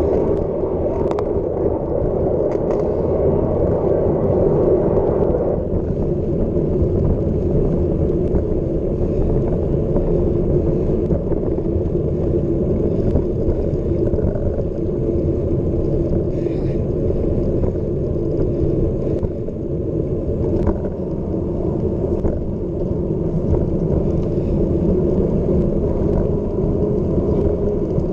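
Wind rushing over the microphone of a bike-mounted or rider-worn camera during a fast mountain-bike descent, a steady low rush mixed with tyre noise on the trail. Scattered faint clicks and rattles from the bike over the rough ground.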